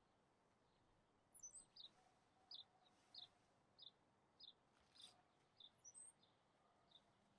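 A bird chirping faintly: a steady series of short, high chirps, about one every half second or so, beginning about a second and a half in, with a couple of higher, quicker calls mixed in.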